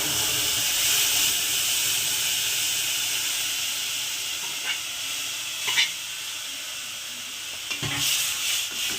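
Boiled, mashed peas and potatoes sizzling in a kadai of hot mustard-oil tempering just after being added, the hiss slowly dying down. A ladle knocks and scrapes the pan a few times in the second half.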